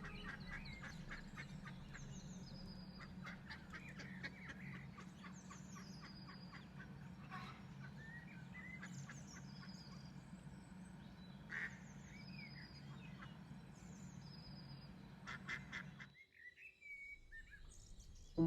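Waterfowl calling in quick bursts, with a small songbird repeating a short high, falling phrase every couple of seconds. A steady low hum runs underneath and cuts out about sixteen seconds in.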